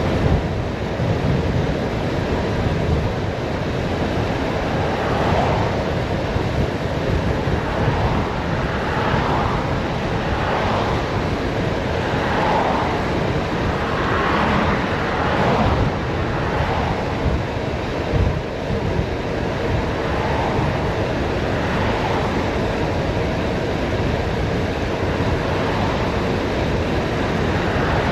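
Heavy wind rushing over the microphone on a fast downhill bicycle ride: a steady, loud, low rumble of air.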